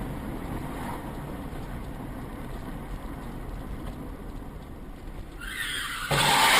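Car on the move: a steady low rumble of engine and road noise. A hiss comes in after about five seconds and swells into a much louder rushing noise near the end.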